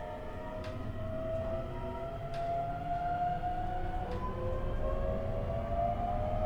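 JR East E127 series EMU pulling away under power: the Toyo Denki GTO-VVVF inverter and traction motor tones rise slowly in pitch as a group, with wheels clicking over rail joints about every two seconds. Its gear whine carries an extra tone a semitone above the usual minor-seventh pair, the known abnormal noise of this car, KuMoHa E127-11.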